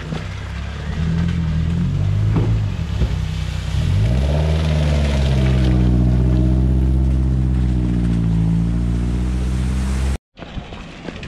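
Classic sports car engine pulling away, its note rising about four seconds in and then holding steady as the car drives off. The sound cuts off abruptly near the end.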